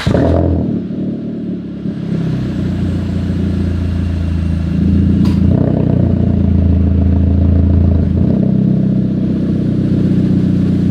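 Car engine running through an aftermarket stainless-steel racing exhaust, settling to a steady idle just after starting. The revs lift slightly about four and a half seconds in and drop back about eight seconds in.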